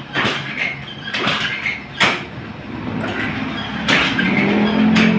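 Start attempts on a Suzuki Burgman 125 scooter that will not start easily: several sharp mechanical clunks, then a low steady hum near the end. The hard starting comes from a flat battery reading zero volts.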